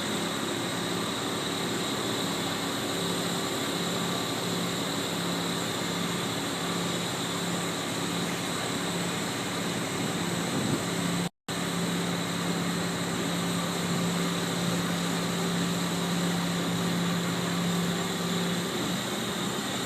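Crane engine running steadily with an even hum while it lifts a heavy rooftop unit. The sound drops out for a split second about halfway through.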